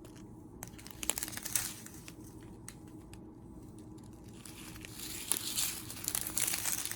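A strip of small plastic bags of diamond-painting drills crinkling as it is handled, in two spells about a second in and from about five seconds in, with scattered light clicks.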